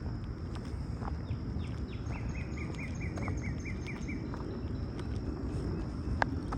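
A songbird's trill of about ten quick, evenly repeated chirps, starting about two seconds in and lasting two seconds, over a steady high-pitched hum and a low rumble of outdoor noise. A single sharp click comes near the end.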